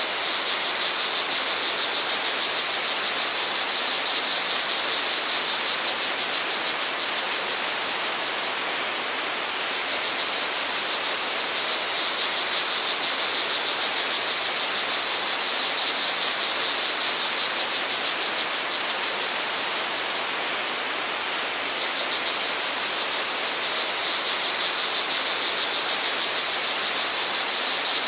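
Steady rush of flowing water, with crickets trilling in a fast, high pulsing chirr that breaks off briefly twice.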